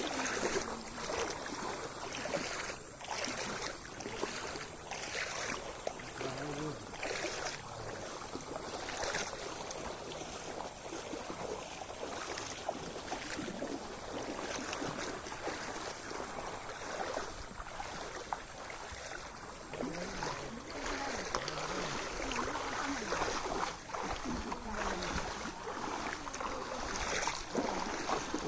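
Steady sound of moving water, waves and splashing, with wind noise and irregular small knocks and splashes throughout.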